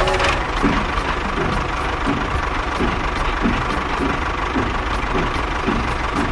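An engine running steadily at a fast idle, with a regular knock about three times a second.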